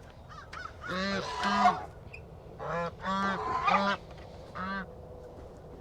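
Domestic geese honking: a series of loud calls in short bursts, stopping a second or so before the end.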